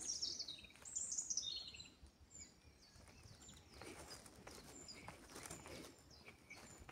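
Small songbird singing: a quick run of high chirps stepping down in pitch in the first second and a half, then fainter scattered chirps.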